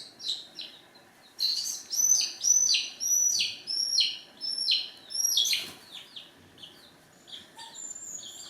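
Chicks peeping: a run of loud, high chirps, each falling in pitch, about two a second, growing fainter and more scattered near the end.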